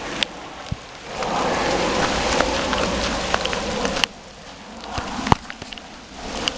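Hail pelting down hard: a dense patter of small ticks with a few sharp, close hits. The din swells about a second in, falls back for a couple of seconds around the middle, and swells again near the end.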